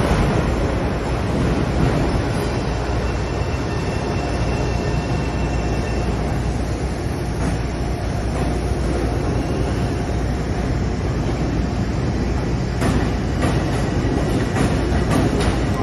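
Train running through the station with a steady loud rumble, a faint high wheel squeal a few seconds in, and a few sharp clanks near the end.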